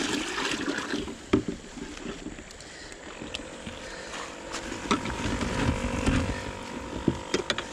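Creek water sloshing and splashing, with scattered sharp knocks and clicks. A faint steady hum comes in about three and a half seconds in.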